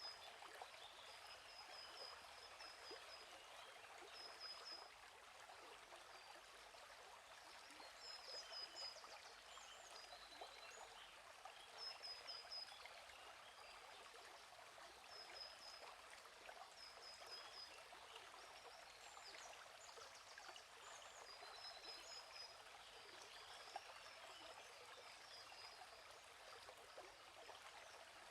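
Faint, steady trickle of a gently flowing stream, with small birds giving short, quick series of high chirps every few seconds.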